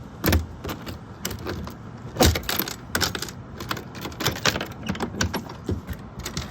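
Irregular clicks, knocks and rattles as a small boat's storage compartment is opened and the things inside, the gas can among them, are handled. The loudest knocks come about a quarter second in and just after two seconds in.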